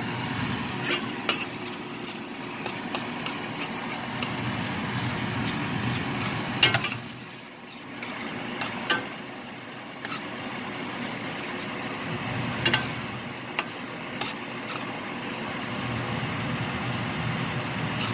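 A metal spoon clinking and scraping against a cooking pan while ground chicken is stirred, with sharp clinks every second or two over steady background noise.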